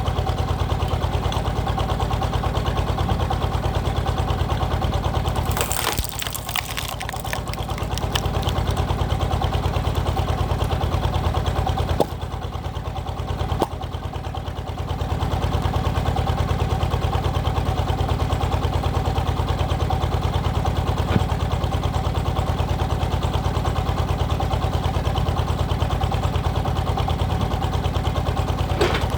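Power tiller's single-cylinder diesel engine running with a fast, even putter while it drives a hydraulic log splitter. It dips in level briefly twice, with a few sharp crackling noises around six seconds in.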